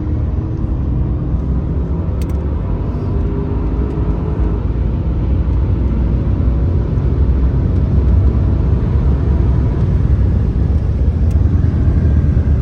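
Car driving, heard from inside the cabin: a steady low rumble of engine and road noise that grows slowly louder.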